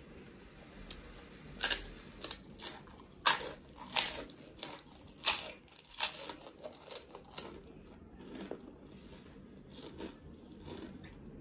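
Close-up crunching of a person biting and chewing a crisp fried snack. A string of sharp crunches runs from about a second and a half in to about seven seconds in, then gives way to softer chewing.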